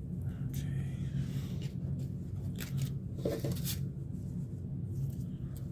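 Pokémon trading cards being handled and sorted by hand: a scatter of short slides, flicks and taps of card on card, over a steady low hum.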